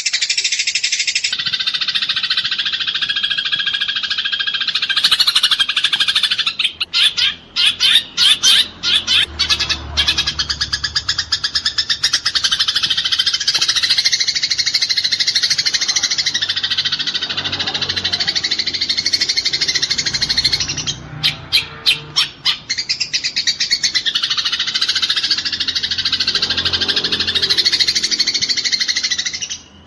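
Eurasian tree sparrows fighting: a dense, continuous, harsh chattering with bursts of rapid separate chirps about seven seconds in and again about twenty-one seconds in.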